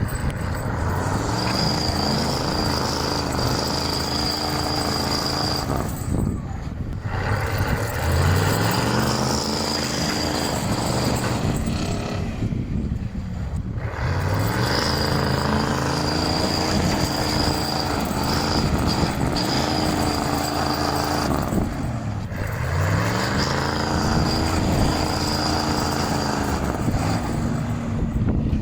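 Big truck engine pulling hard and climbing in pitch, cutting out briefly for a gear change three times as the truck accelerates through the gears, with a steady high whine over most pulls.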